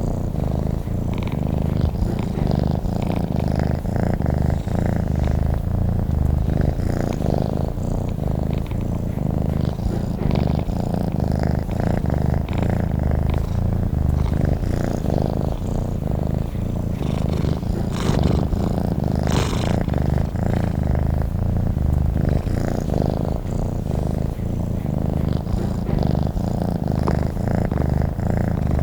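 Domestic cat purring steadily and continuously, a low even rumble that pulses in a regular rhythm.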